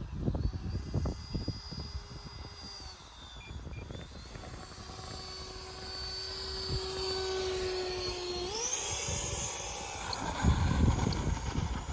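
Electric motor and propeller of an E-flite T-28 Trojan RC warbird whining in flight, its pitch stepping up about eight and a half seconds in as the throttle opens. Wind gusts rumble on the microphone at the start and again near the end.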